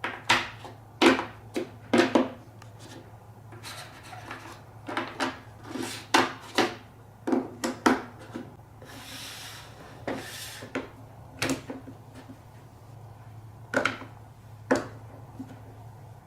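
Marbles running through a colourful block marble run: a string of irregular hard clacks as they drop and hit the blocks, with a stretch of rolling rumble about nine to ten and a half seconds in.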